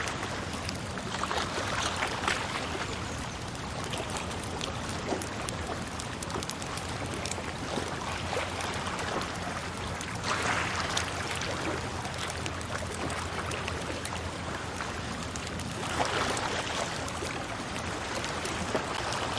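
Water flowing and splashing steadily, dense with small splashes, swelling louder for a few seconds about two seconds in, again around ten seconds in and again at about sixteen seconds.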